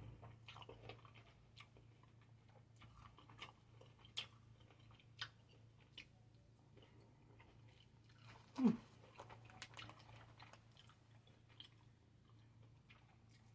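Quiet chewing and biting of grapes, with scattered small crunches and mouth clicks. A little past halfway there is one short vocal hum that falls in pitch.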